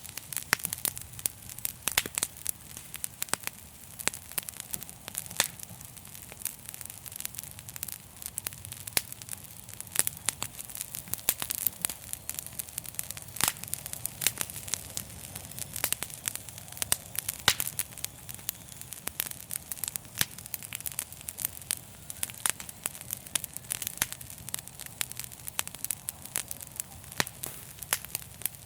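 Fire crackling, with dense, irregular sharp snaps over a steady hiss and a low rumble.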